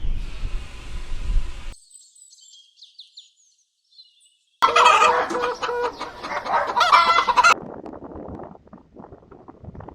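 Chicken calling, loud and pitched, for about three seconds starting around halfway through. It follows a low rumble and faint high chirps at the start.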